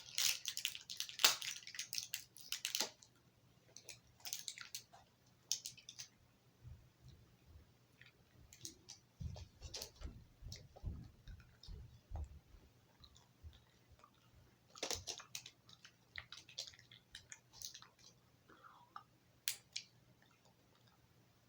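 Gum packaging crackling as a piece of chocolate mint gum is taken out, then a person chewing the gum with scattered wet clicks and smacks. A run of low thuds comes about nine to twelve seconds in.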